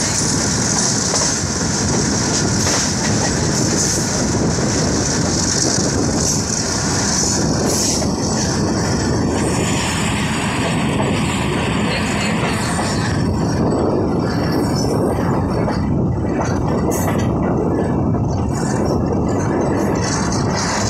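Passenger train coach running along the track, heard at an open window: a steady rumble and rattle of wheels on rail. A high hiss over it in the first half drops away after about thirteen seconds.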